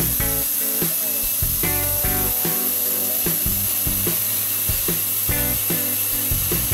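CNC 6040 router's spindle driving a 4 mm two-flute end mill through a 6060 aluminium plate under a mist coolant spray: a steady high whine with the rasp of the cut. Background music with a steady beat runs underneath.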